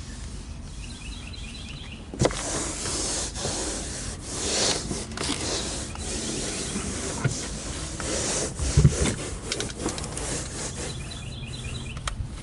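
Rubbing and scuffing of cleaning inside a car, with a sharp knock about two seconds in and a few more bumps, the heaviest near nine seconds. Faint bird chirps come before the rubbing starts.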